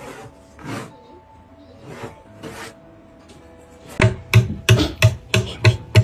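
Faint background music with a few scrapes, then, about four seconds in, a quick run of sharp knocks, roughly three a second.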